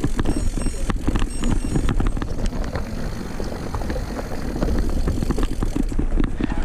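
Mountain bike riding along a forest trail: tyre rumble on dirt with a steady stream of small knocks and rattles from the bike as it runs over the ground.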